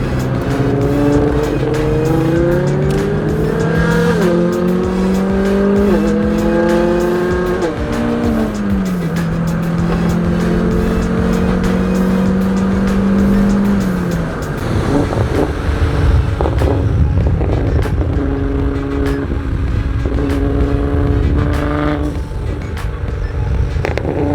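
Nissan GT-R with a Linney drag exhaust accelerating hard, its engine note climbing through three quick upshifts and then holding steady. About halfway through the driver lifts off, and on the overrun the pops-and-bangs tune makes the exhaust crackle and bang repeatedly.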